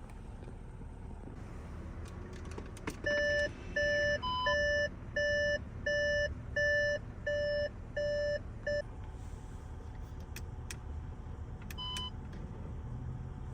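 Car warning chime beeping in a steady series, nine evenly spaced beeps about one and a half a second, the last cut short, over a low steady rumble. A single short higher tone sounds in among the beeps and again a few seconds after they stop.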